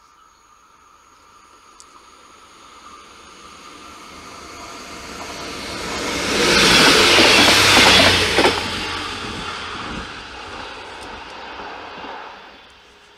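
Arriva Alstom Coradia LINT 41 diesel railcar approaching and passing, its engine and wheels on the rails growing louder to a peak about seven seconds in, then fading as it moves away.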